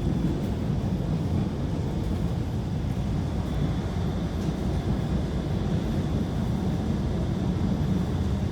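Rapid transit train running, a steady low rumble with no breaks.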